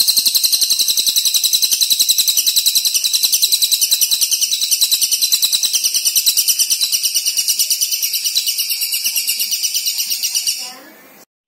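Songbird calling in a fast, even rattle of high notes, about ten a second. It fades out about ten and a half seconds in and stops just before the end.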